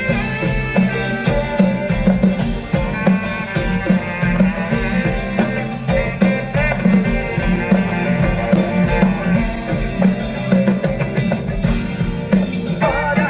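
A rock band playing live: loud amplified guitars, bass and drums in an instrumental passage with a steady beat.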